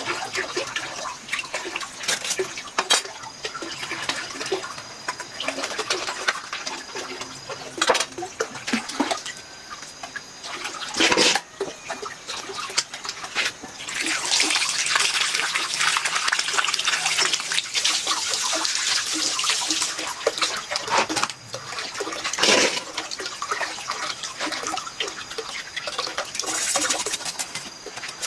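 Water splashing and sloshing, with scattered knocks and clicks throughout and a stretch of heavier, continuous splashing about halfway through.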